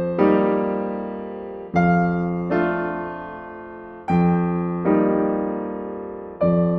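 Slow electric piano music: sustained chords struck every second or two, each fading away before the next.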